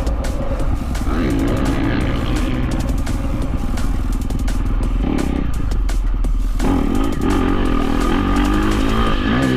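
Dirt bike engine revving hard and easing off again and again as it is ridden around a motocross track, with clattering and knocking over the top. The engine drops back briefly about six seconds in, then picks up again.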